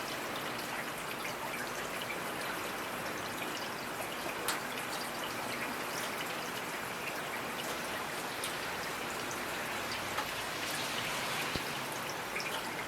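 Steady rainfall, an even hiss of rain with individual drops pattering and ticking through it.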